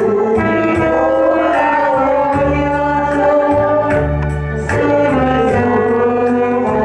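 Saxophone playing a slow, sustained melody over a backing track with bass and a steady light cymbal beat.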